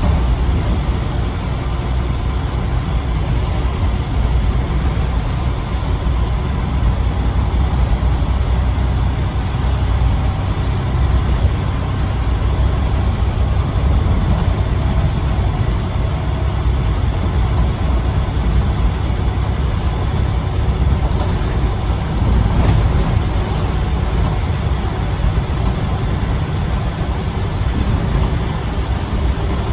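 Scania CN94UB OmniCity single-deck diesel bus running, a steady engine and road noise. A few brief sharp clicks come about two-thirds of the way through.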